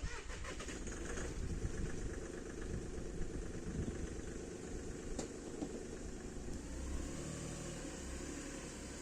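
Motorcycle engine running steadily, beginning abruptly.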